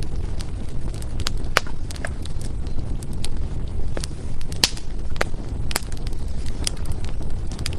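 Firewood burning in a fireplace: irregular sharp crackles and pops, a few each second and one louder snap midway, over a steady low rumble of the fire.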